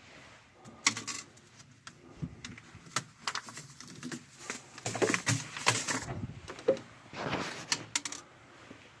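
Pieces of a shattered tempered-glass fridge shelf clinking and rattling as they are handled, in irregular small clicks.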